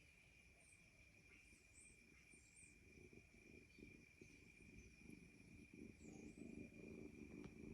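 Faint ambience: a steady high-pitched trill like insects such as crickets, with a low rumble growing louder toward the end.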